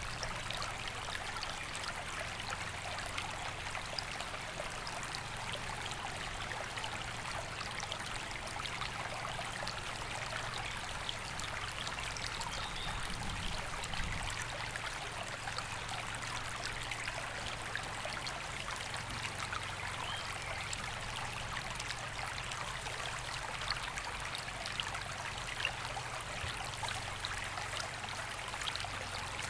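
A river flowing: a steady, unbroken rush of water with fine splashing throughout.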